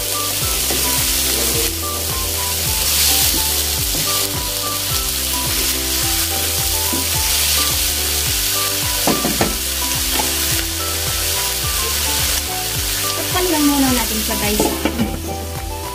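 Food sizzling as it sautés in a hot pan, a steady frying hiss with a few short scrapes of stirring, over background music with a repeating bass line.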